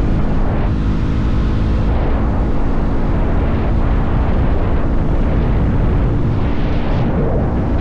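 Motorcycle engine running at a steady cruise under heavy rushing wind noise on the microphone.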